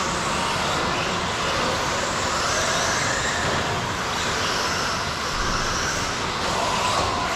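Several electric radio-controlled stadium trucks racing on the track: a steady mix of motor whines that rise and fall in pitch as they accelerate and brake, over the noise of their tyres.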